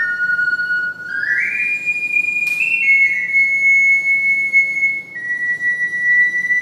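Ocarina playing a slow melody in pure, whistle-like notes. It climbs quickly about a second in to a high held note, steps down, and settles on a long held note. A single sharp click is heard about halfway through.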